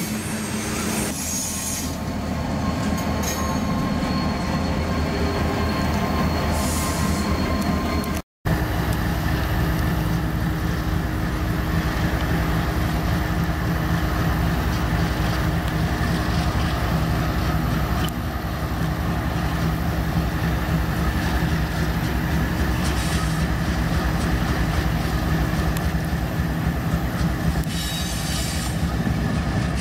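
Freight train hopper cars rolling past with rumbling wheels and a thin, high wheel squeal over the first few seconds. After a sudden cut, CSX diesel locomotives pass, their engines running with a steady low drone over the rumble of wheels on rail.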